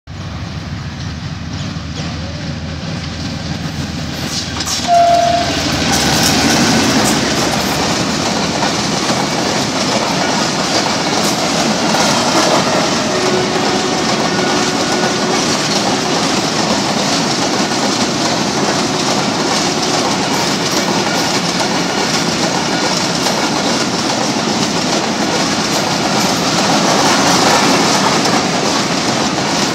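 Diesel locomotive of a long freight train approaching with a building rumble, a short horn blast about five seconds in as it comes past, then a long string of tank wagons rolling by with a steady clickety-clack of wheels over the rail joints.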